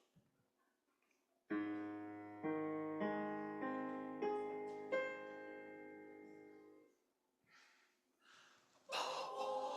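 Piano strikes about six notes one after another, building up a sustained chord that rings and fades, giving the choir its starting pitches. About nine seconds in, the choir starts singing.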